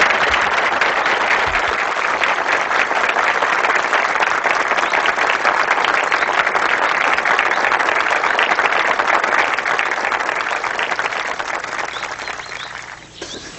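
A crowd applauding with many hands clapping, steady and then dying away near the end.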